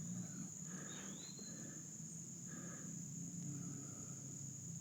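Steady, high-pitched drone of insects singing in summer woods, with a short bird call rising in pitch about a second in.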